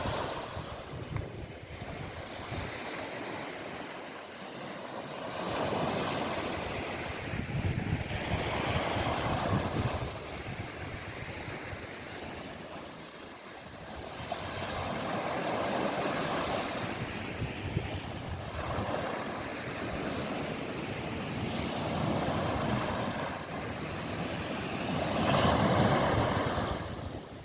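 Sea surf washing onto the shore, swelling and fading every few seconds, with wind buffeting the microphone.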